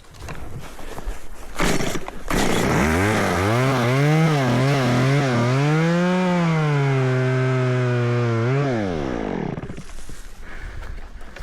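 Two-stroke chainsaw revved in several quick blips, then held at high revs for a couple of seconds while cutting, and let back down to idle about nine seconds in. The saw is clearing downed trees off the trail.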